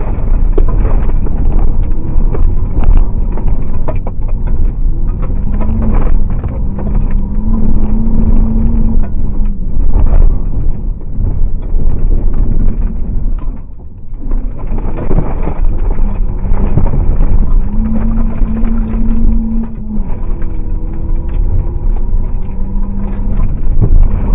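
Car engine running at high revs, heard from inside the car as it drives fast on a loose gravel track, with many short knocks of gravel against the car. The engine note holds steady in spells and drops away briefly a little past halfway before picking up again.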